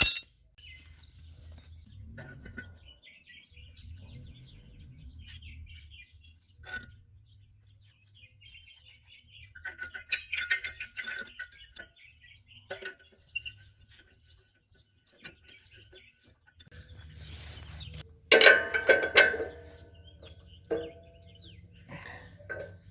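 Scattered metallic clanks and clicks of hand tools and steel parts being handled on a disc harrow, with a busier clatter about ten seconds in and again near the end; birds chirp faintly in the background.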